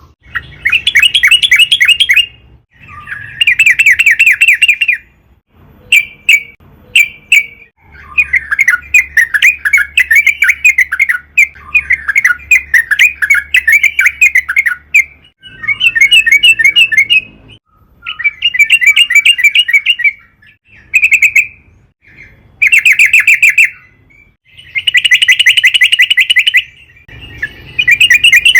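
Yellow-vented bulbul (trucukan) singing in repeated bursts of rapid, bubbling chatter, each burst a second or two long with short pauses between, and one longer run of several seconds in the middle.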